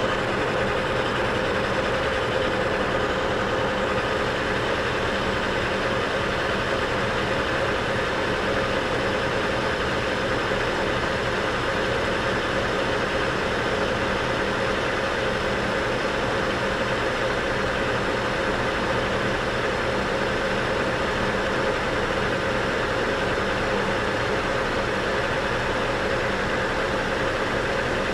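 South Bend 14-1/2 metal lathe running under power feed with the tool taking a deeper cut along a shaft: a steady machine drone with a few held tones.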